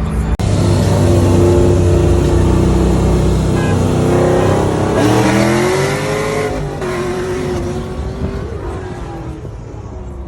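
Car engine accelerating hard. It runs loud and steady, then climbs sharply in pitch about five seconds in, then holds and eases off as it fades.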